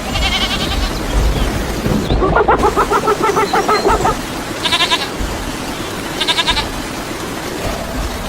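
Three bleating animal calls, the first long and the next two short, over a steady low background noise.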